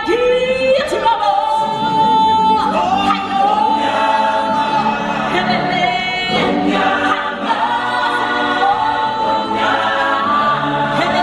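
Stage-show music with singers holding long, sustained notes, several voices together in a choir-like sound over the backing track.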